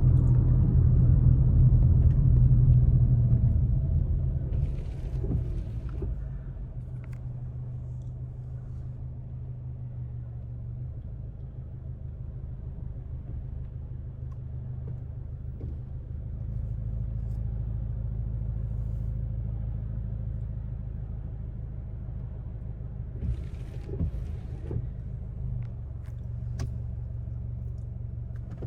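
Steady low rumble of road and engine noise heard from inside a moving Subaru Outback Touring XT, louder for the first few seconds and then easing to a quieter hum.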